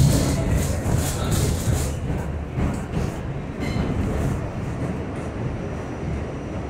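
An R68 subway train rumbling and rattling along the rails. The noise is loudest at the start, with a hiss over the first couple of seconds, and eases off steadily after that.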